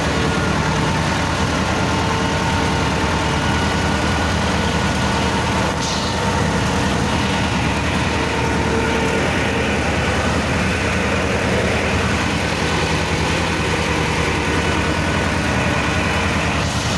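T-16 self-propelled tractor's two-cylinder air-cooled diesel engine running steadily, with a brief click about six seconds in.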